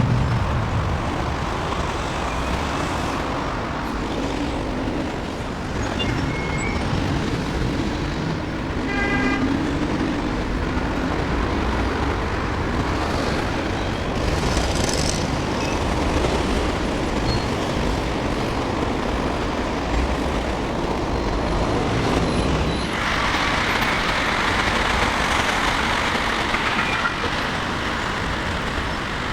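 Steady road traffic on a busy roundabout, with cars, buses and lorries passing. About nine seconds in there is a brief pitched sound, and a louder hiss sets in around twenty-three seconds.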